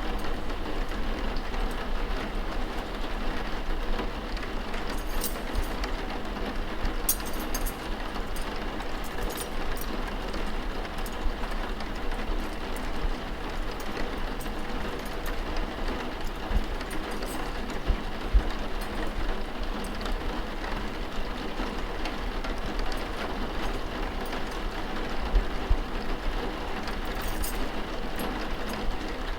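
Steady rain falling, with a few faint clicks scattered through it.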